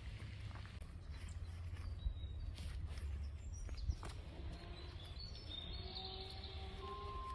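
Outdoor ambience: a steady low rumble of wind on the microphone, with birds chirping now and then and a couple of sharp clicks. Near the end a few held tones enter.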